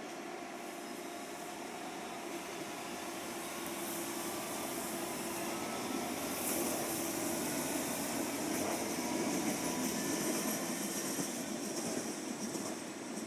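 A train rolling past on the tracks. Its wheel and rail noise swells from about four seconds in, with a hiss, and eases off near the end.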